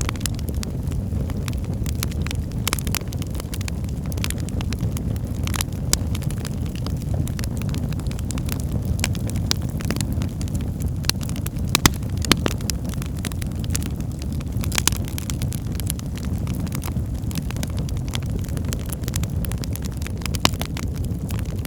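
Fireplace fire crackling: irregular sharp pops and snaps over a steady low rumble of the burning, with a few louder pops around the middle and near the end.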